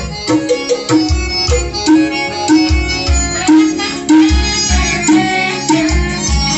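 Music with a heavy bass beat, about two thumps a second, played loud through a compact four-way speaker cabinet: a Hard Power 550 woofer, a 250 midrange, and phenolic and titanium tweeter drivers.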